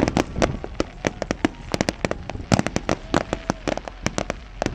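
Consumer fireworks and firecrackers going off: a dense, irregular string of sharp bangs and pops, several a second.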